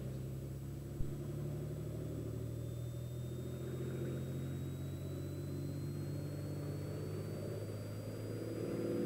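Turbocharged Cessna 206's six-cylinder piston engine running steadily at full power while the aircraft is held on its brakes for takeoff. A faint high whine rises slowly in pitch through the run-up, and there is one brief knock about a second in.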